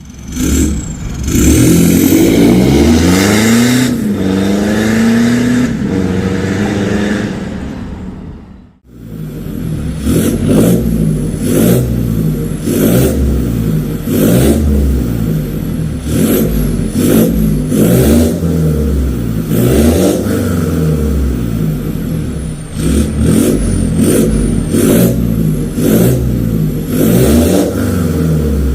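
Mitsubishi Pajero Sport engine heard through an aftermarket full-system racing exhaust, being revved. For about the first nine seconds it holds a long rev whose pitch rises and falls. After a brief drop, it gives repeated short throttle blips, roughly one a second.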